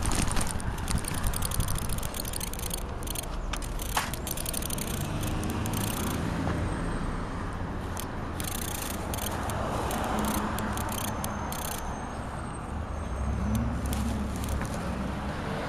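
Road traffic: car engines running and vehicles passing, one engine rising in pitch as it pulls away near the end, with scattered clicks over the top.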